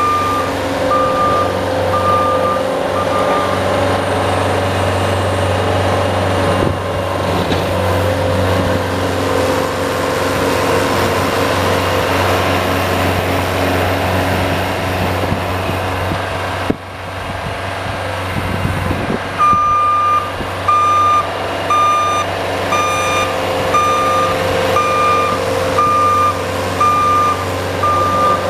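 A plow vehicle's engine running steadily while its reversing beeper sounds in even beeps, about one a second, at the start and again from about two-thirds of the way in: the vehicle is backing up between plowing passes.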